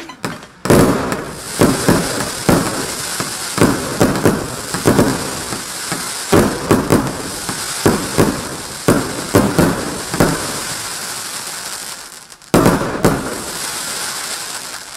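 Consumer fireworks cake (multi-shot battery) firing: shots about twice a second over a dense crackling hiss of bursting stars. The shots stop briefly about twelve seconds in, then one more volley fires and its crackle fades away.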